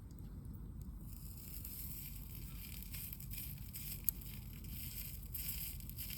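Campfire crackling and hissing, with faint scattered ticks and one sharp pop about four seconds in, over a low steady rumble.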